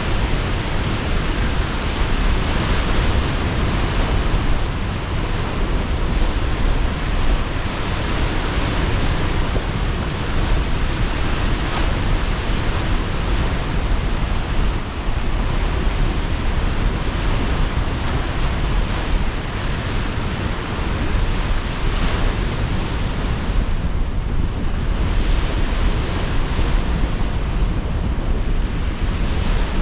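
Sea surf breaking and washing in slow swells under strong gusting wind, with a deep rumble throughout.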